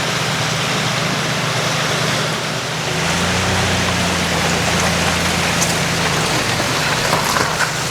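Steady rushing of high, fast-moving water, with a low engine hum joining about three seconds in and dropping away a little after six seconds.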